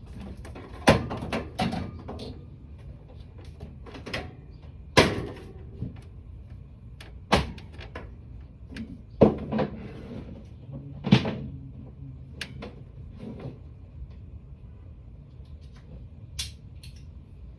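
A series of hard knocks and clunks, about a dozen at irregular intervals, over a faint low steady hum.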